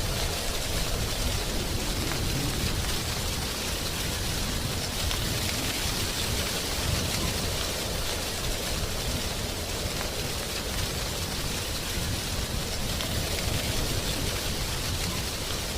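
Wind blowing steadily through drying tree leaves, a constant rustling hiss with a low rumble of wind beneath.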